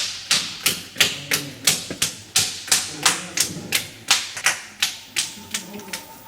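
Hardened potter's clay being beaten in a steady rhythm of sharp slaps, about three a second, to soften it. The strikes grow fainter and stop shortly before the end.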